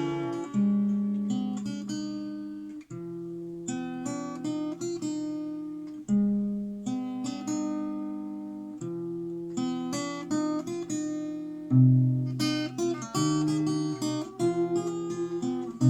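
Acoustic guitar playing an instrumental passage of picked chords that change every second or two, with a harder strummed chord about 12 seconds in.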